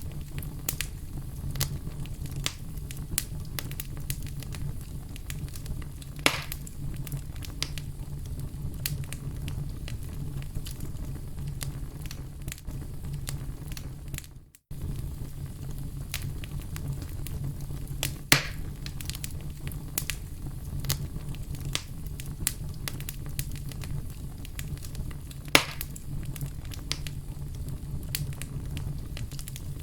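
Wood fire crackling, with a steady low rumble under many small crackles and a few louder pops. There is a very short dropout about halfway through.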